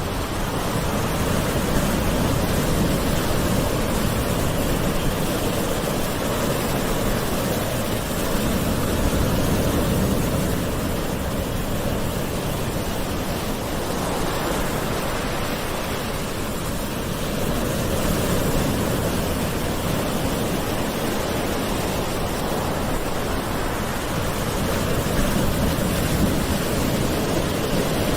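Gentle sea waves washing onto a shore: a steady rush of surf that swells softly about every eight seconds.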